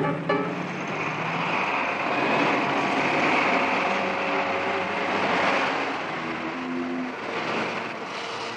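Loud rushing vehicle noise that swells over the first few seconds and eases off after about five seconds, with the orchestral score faintly underneath and coming back up near the end.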